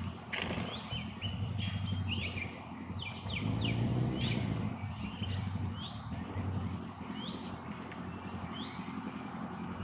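A common starling giving a scattered series of short, sharp chirps and squeaks, over a steady low hum.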